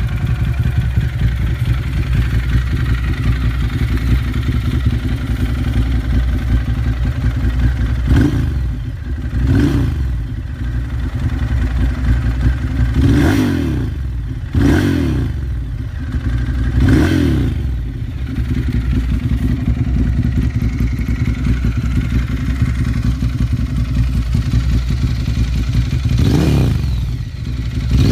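A 1000 cc-class motorcycle engine idling through its exhaust, blipped up with about six short throttle revs that rise and fall back to idle, spread through the stretch with a long idle between the fifth and the last.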